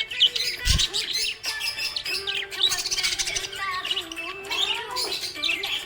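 Budgerigars chirping and warbling in a steady stream of quick, sweeping chirps, with a low thump just under a second in.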